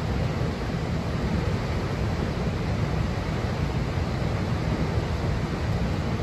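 Steady roar of a large waterfall, a dense rushing noise heaviest in the low end, possibly mixed with wind on the microphone.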